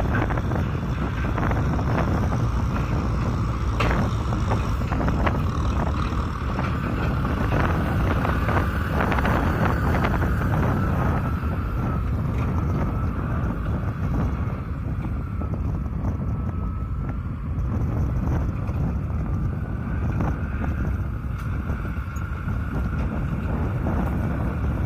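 Kubota M6040SU tractor's diesel engine running steadily, with a thin whine that wavers slightly in pitch and wind buffeting the microphone.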